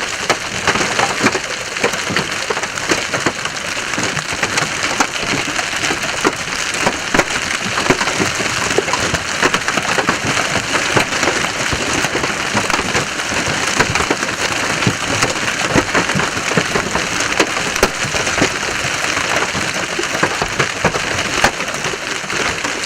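Large hailstones and heavy rain pelting a vehicle: a dense, continuous barrage of hard impacts over a steady rain hiss.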